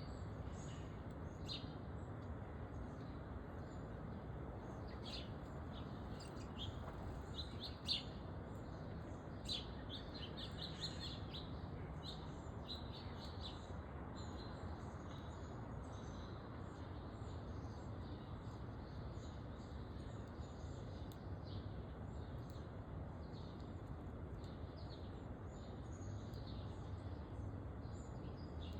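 Small backyard songbirds chirping, many short high calls in quick succession, busiest in the first half, over a steady low background hum of outdoor noise.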